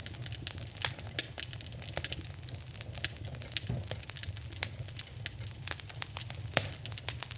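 Wood fire in a fireplace crackling: frequent sharp pops and snaps, a few louder than the rest, over a low steady rumble of the flames.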